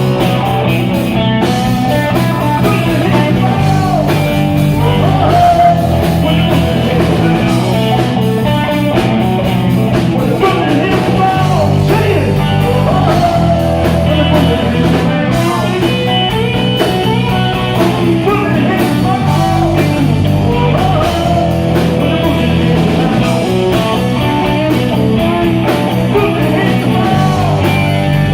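Live rock band playing a song: singing over electric guitar, a stepping bass line and drums keeping a steady beat.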